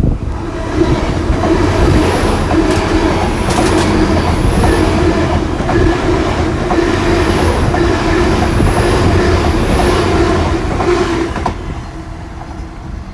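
A pair of coupled GWR Class 802 bi-mode trains passing through on their underfloor diesel engines, with steady wheel-on-rail running noise and clickety-clack over the joints. The noise falls away about 11 seconds in as the train clears.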